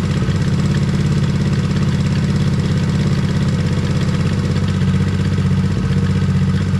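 Hawk 110cc ATV's small single-cylinder four-stroke engine idling steadily on its newly fitted carburetor.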